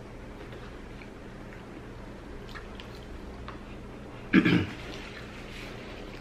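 A man chewing food with soft, scattered mouth clicks, and one short, loud throat sound from him a little over four seconds in.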